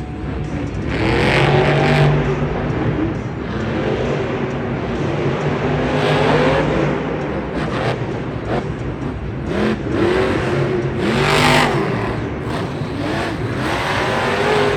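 Monster truck engine revving hard over and over, its pitch rising and falling in repeated surges that are loudest about a second in and again about eleven seconds in.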